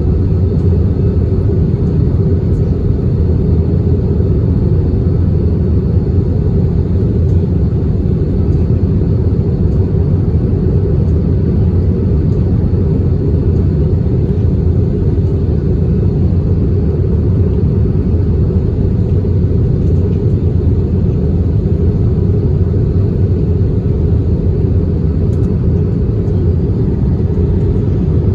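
Steady low rumble inside an Airbus A320's passenger cabin in flight, the airflow and engine noise running evenly without change.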